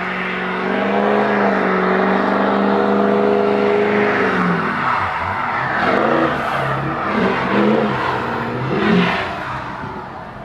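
A Ford vehicle's engine revving hard as it drives through deep snow. It holds a high, steady note for about four seconds, then drops and revs up and down several times before easing off near the end.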